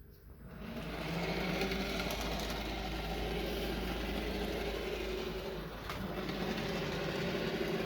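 N gauge Graham Farish Class 37 model locomotive running along the track at its top speed step, its small electric motor and gearing giving a steady mechanical hum. The sound builds up over about the first second as the loco sets off on its return run.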